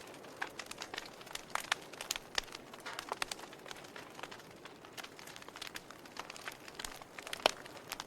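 Wood fire burning in a fireplace, crackling with irregular sharp pops over a soft hiss, and one louder pop near the end.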